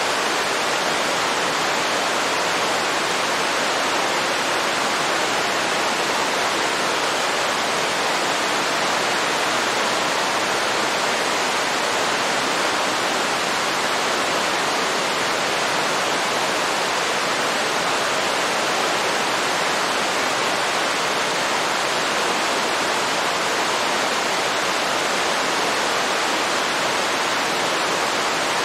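Waterfall rushing in a steady, unbroken roar of falling water with no change in level.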